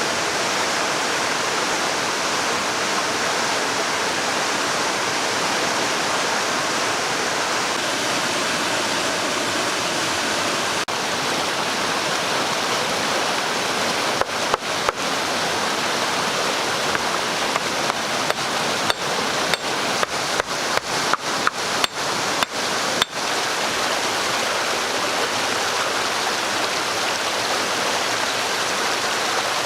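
Steady rushing water noise, with a quick run of short sharp clicks or knocks through the middle, about two a second.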